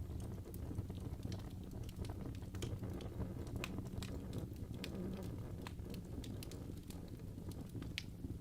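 Wood fire burning in a fireplace: a steady low rumble of flames with irregular crackles and pops from the burning logs, the sharpest one near the end.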